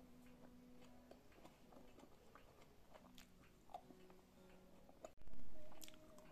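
A person chewing bread with the mouth closed: soft, scattered wet clicks and smacks. About five seconds in comes a brief, loud, low thump.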